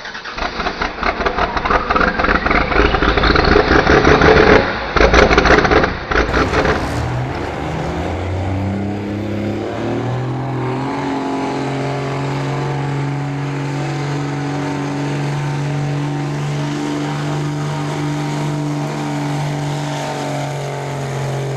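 Diesel pickup truck engine at full throttle during a truck pull: a loud rising rev with heavy clatter for the first several seconds, then the pitch steps up a few times and holds steady for the rest.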